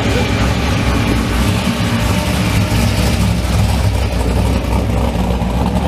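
Car engine running loud and steady, a deep rumble with no clear revs.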